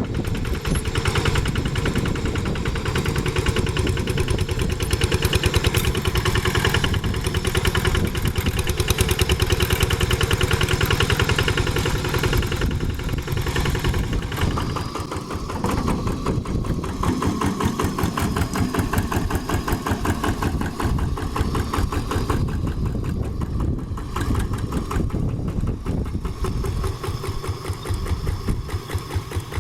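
Two-wheel hand tractor's diesel engine running steadily with a rapid, even chugging.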